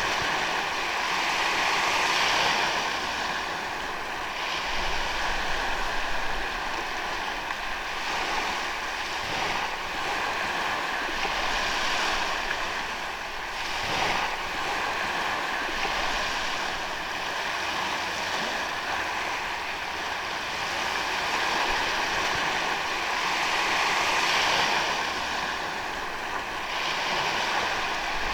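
Ocean waves breaking and washing up on a sandy beach, in a continuous surf noise that swells and ebbs every few seconds.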